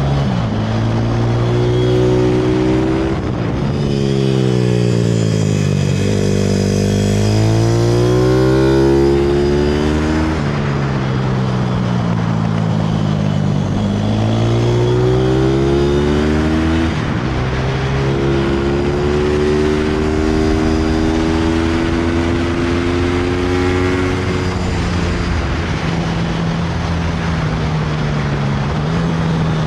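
160cc pit bike's single-cylinder four-stroke engine under load, its pitch rising and falling several times as the throttle is opened and closed. It then holds a high, steady note for several seconds before dropping off near the end.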